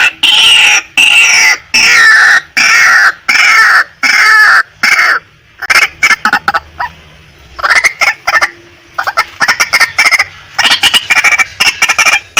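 Female white-breasted waterhen calling: loud, harsh calls, each falling in pitch, repeated about once a second for the first five seconds. After a pause of about three seconds they give way to a fast run of short, clipped notes.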